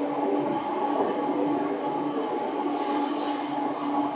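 Seibu 2000 series electric train running with a steady hum over wheel-and-rail noise. From about halfway through, a high, wavering squeal from the wheels joins in.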